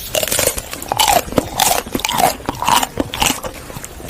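Close-up chewing of crunchy food, with loud crisp crunches about twice a second.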